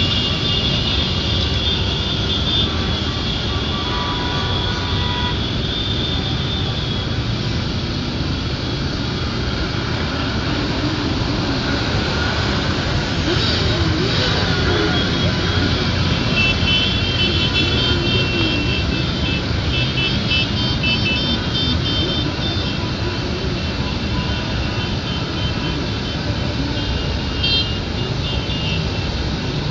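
Many motorcycles riding past together in a continuous din of engines, some revving up and down. Short horn beeps sound repeatedly, mostly in the second half.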